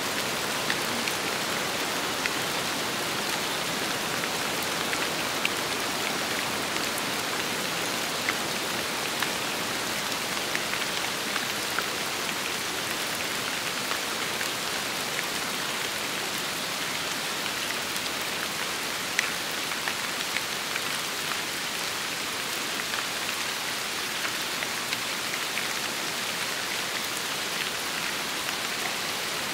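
Steady rain falling, an even hiss dotted with frequent sharp ticks of single drops hitting a surface.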